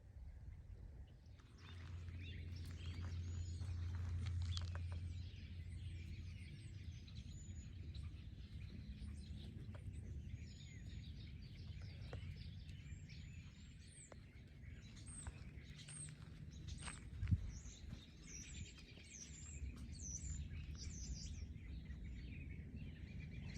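Small birds chirping and calling, many short high calls overlapping, over a low steady rumble, with one sharp tap about three-quarters of the way through.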